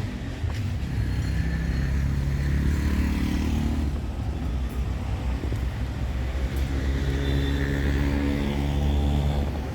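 Road traffic: motor-vehicle engines passing close by. One engine passes in the first few seconds, and a second rises after the middle and is loudest near the end, over a steady low rumble.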